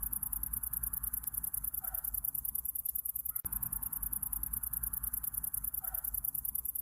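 Night insects chirping in a fast, even, high-pitched pulse over a low steady rumble and a softer hiss. The hiss swells and fades in a pattern that repeats about every four seconds, with a faint click about three and a half seconds in.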